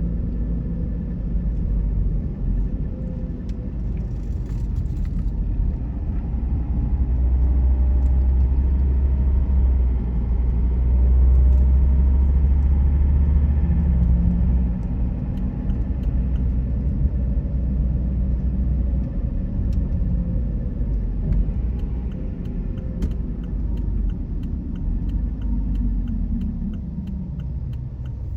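A car driving on the road: steady engine and tyre rumble that grows louder for a few seconds and eases off near the end.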